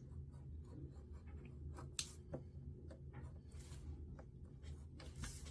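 Paper being handled and worked by hand: short scratchy rubs and clicks, the sharpest about two seconds in, over a steady low hum.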